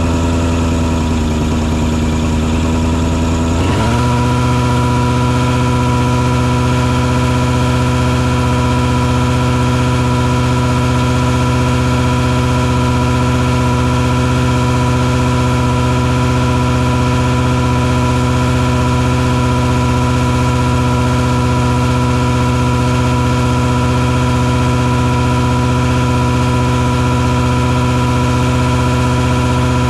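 Engine noise from a mosquito fogging truck, running steadily. About four seconds in, the engine speed steps up quickly and then holds even.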